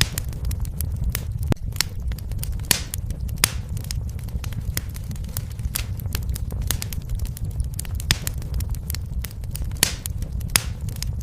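Wood fire in a fireplace crackling: frequent, irregular sharp pops and snaps, a few louder than the rest, over a steady low rumble.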